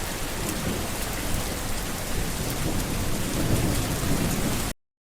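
Steady heavy rain with a low rumble of thunder underneath. The sound cuts off abruptly near the end.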